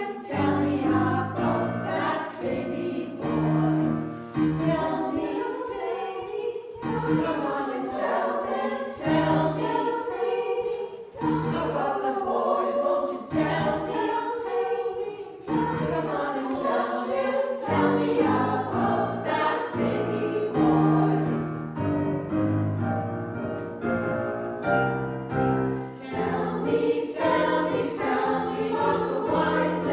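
A choir of sopranos and altos singing together in parts, in a steady flow of sung phrases.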